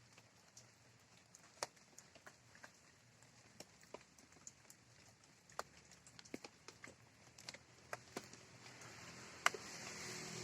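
Light morning rain: scattered raindrops falling as irregular, sharp little ticks and taps, with a soft hiss building over the last couple of seconds.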